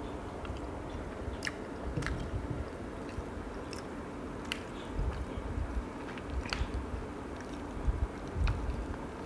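Close-up chewing of lobster meat, wet and soft. A handful of small sharp clicks come as pieces of the lobster's shell are picked apart by hand.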